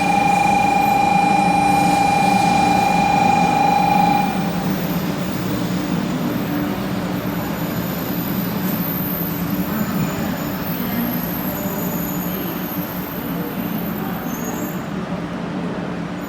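Shinkansen Kodama train at the platform with a steady low hum. A loud, steady high-pitched tone stops abruptly about four seconds in, leaving the hum and a general rushing noise.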